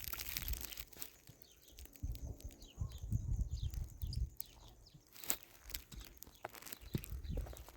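Small birds chirping, over close crunching and rustling noises that are loudest in the middle.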